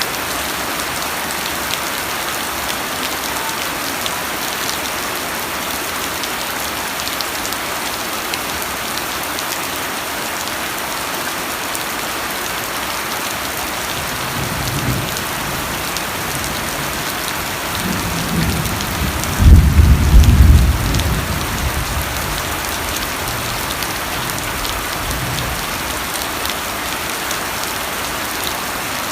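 Steady rain falling, an even hiss. A low rumble of thunder starts about halfway through, swells to a loud peak about two-thirds of the way in, then dies away.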